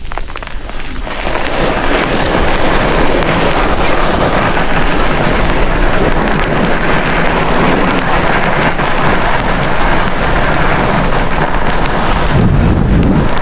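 Loud, steady rushing noise with no distinct tones that builds up about a second in.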